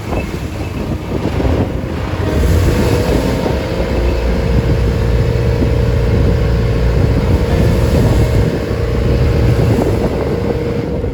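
A wooden boat's engine running steadily with a constant hum, with wind buffeting the microphone and waves around the hull.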